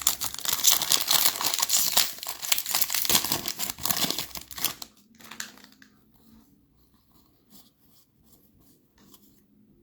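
A trading-card pack wrapper crinkling and tearing as it is opened, loud for about five seconds. It then stops abruptly, leaving faint scattered ticks as the cards are handled.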